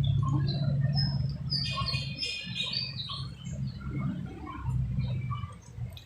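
Birds chirping, with a quick run of high chirps about two seconds in, over a steady low hum.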